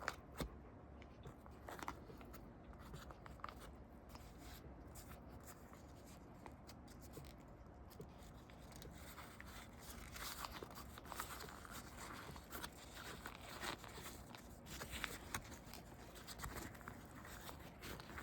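Packaging being handled and opened: faint scattered clicks and rustling, busier from about halfway through.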